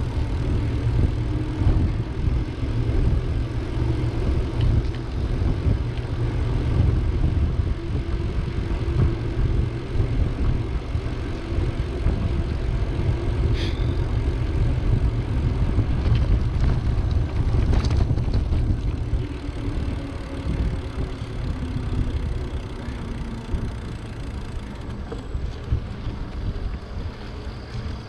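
Wind rumbling on the microphone as a bicycle rides along a road, with a couple of brief clicks partway through.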